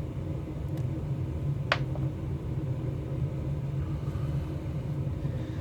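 Steady low hum with one sharp click about a second and a half in, as a dowel rod pushes a cast hot-glue dart tip up and out of its mold.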